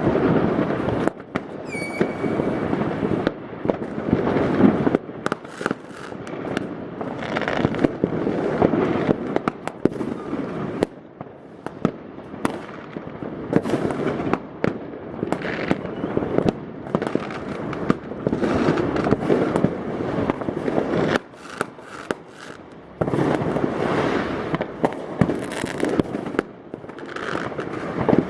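New Year's Eve fireworks: a dense, continuous barrage of rocket and firecracker bangs with crackling, many overlapping at once. A short high whistle sounds about two seconds in.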